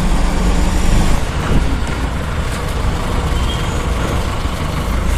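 Steady road-traffic noise with a low rumble of passing vehicles.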